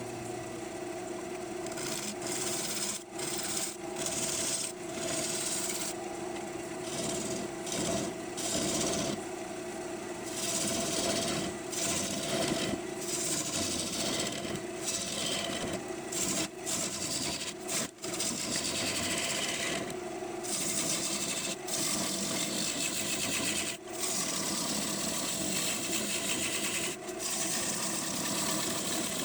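A wood lathe running while a turning tool cuts into a green maple bowl blank: a steady motor hum under a continuous rough, hissing cut, broken by many short gaps where the tool lifts off the wood.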